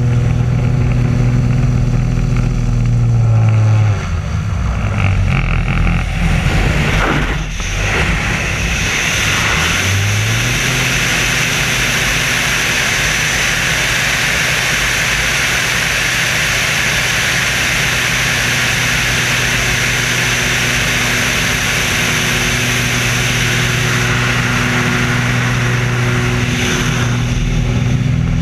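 Engines and wind noise of the Screamin' Sasquatch, a jet-boosted Waco biplane, in flight. About 4 to 10 seconds in the engine note dips and slides in pitch. After that a loud, steady rushing hiss sits over the running engine until near the end.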